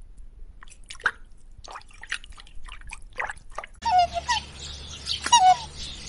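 Scattered watery drips and clicks, then, about four seconds in, a bird calling in short falling notes over a steady background hiss.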